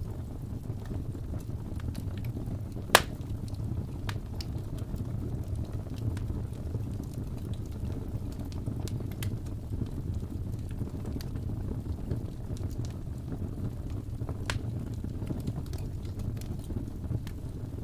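Fireplace fire burning with a steady low rumble and scattered sharp crackles and pops, one much louder pop about three seconds in.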